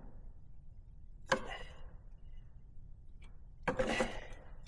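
Hand tool knocking against the intake and clamp hardware during installation: one sharp click about a second in, then a short clatter of handling near the end.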